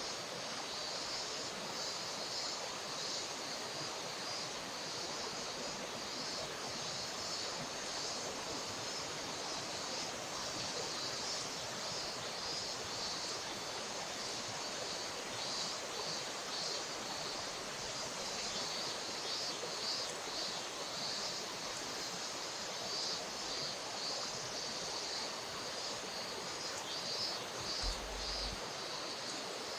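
River water flowing in a steady rush, with a steady high-pitched hiss over it.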